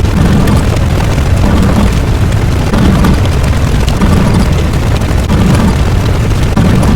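Loud, continuous low rumble with repeated booms, a sound effect of the explosion kind.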